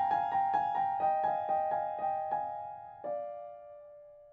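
Electric piano music: repeated notes about four a second, then a held chord about three seconds in that slowly fades away.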